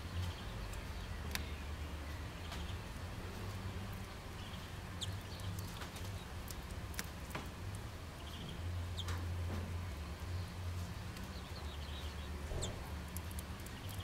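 Short, scattered chirps of small songbirds, with a few sharp ticks and a steady low hum underneath.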